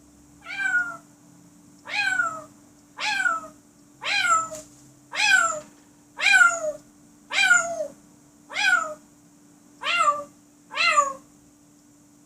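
African grey parrot mimicking a cat's meow, ten times over at about one call a second. Each call is a short falling cry.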